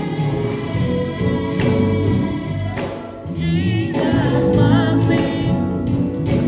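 Gospel music with a choir singing; about three seconds in, a solo voice with a wide vibrato rises above it.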